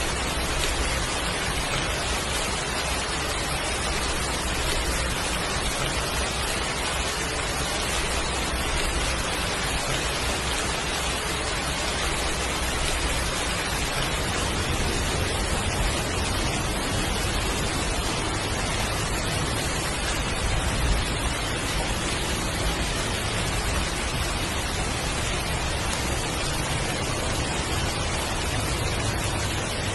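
Heavy rain falling steadily, an even hiss. A single slightly louder moment comes about two-thirds of the way through.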